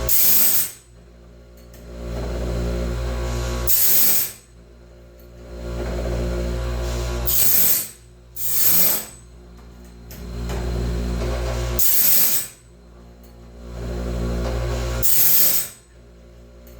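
Homemade bandsaw-blade sharpener working through the teeth of a sawmill band. A motor hum builds and holds, then ends in a short bright grinding hiss as the wheel grinds a tooth. The cycle repeats about every three and a half seconds, six grinds in all.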